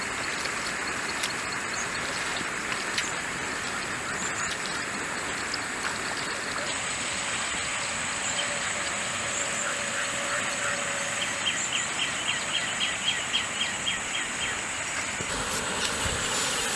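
Steady rush of a jungle stream with a high, continuous insect whine. About two-thirds of the way through, an animal gives a rapid series of short calls, several a second, for about three seconds.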